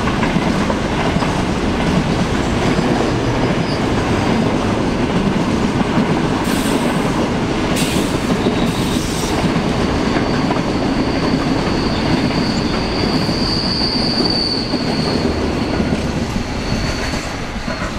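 Freight train of grain hopper wagons rolling past on steel rails: a steady rumble with a few sharp clicks over the rail joints. About halfway through, a high steady wheel squeal sets in. It is loudest a few seconds before the end, and the rumble eases as the last wagons pass.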